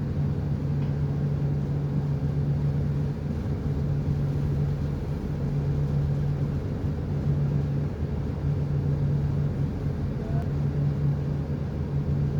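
A ship's engine running steadily: a low, even drone with a strong constant hum.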